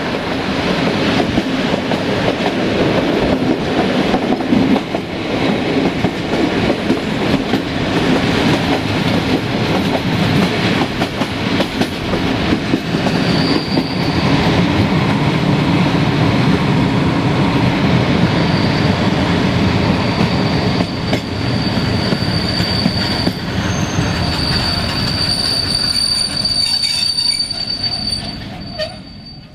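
Passenger train rolling on the track with steady rumbling wheel noise. A thin, high brake squeal comes in briefly about halfway through and returns for the last third as the train slows for a station stop. The noise dies away near the end.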